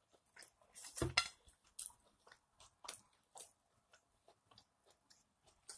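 A person chewing and biting steak close to the microphone: a run of short, wet mouth clicks and smacks. A louder bite comes about a second in.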